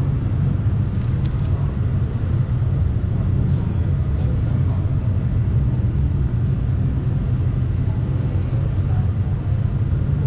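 Steady low rumble of car engines idling.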